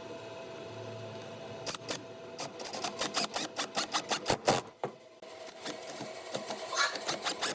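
Irregular sharp clicks and knocks of work on wood, over a steady hum; one knock about four and a half seconds in is the loudest.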